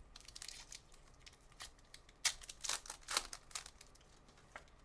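A foil trading-card pack wrapper being torn open and crinkled: a run of short, crisp rips and rustles, several of them sharper than the rest.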